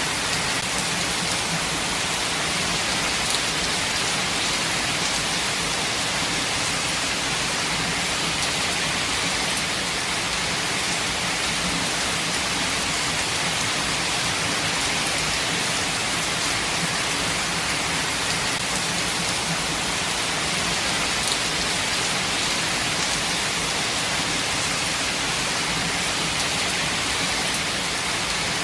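Steady rain falling, an even hiss of dense drops pattering on surfaces, with no let-up or change in strength.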